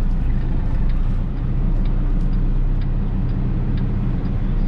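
Semi truck's diesel engine running at low speed, a steady low rumble, while the truck is maneuvered to back a trailer into a parking spot.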